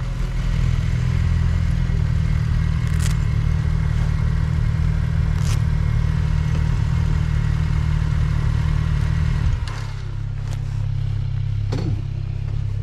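BMW R1200GS Adventure's flat-twin boxer engine running steadily under way, a low rumble mixed with wind noise. It drops to a lower, quieter note about ten seconds in.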